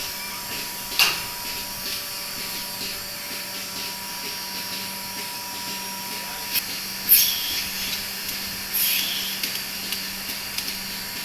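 DeLaval BMS4 bucket milking machine's vacuum pump running with a steady hum, with a few brief hissing bursts and clicks over it.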